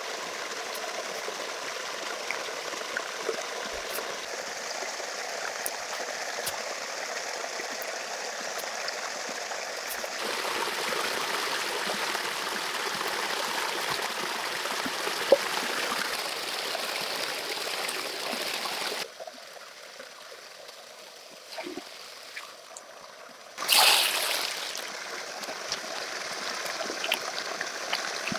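Steady running, trickling water with scattered small clicks. The sound steps louder about ten seconds in, drops off abruptly about nineteen seconds in, and comes back with a brief loud burst near twenty-four seconds.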